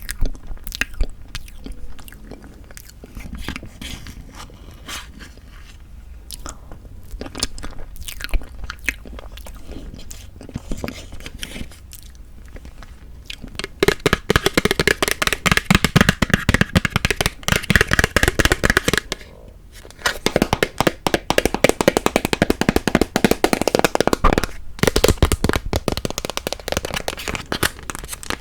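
Close-miked chewing and wet mouth sounds of eating bean curd tiramisu. Scattered small clicks in the first half give way to dense, loud chewing from about halfway, with one short pause.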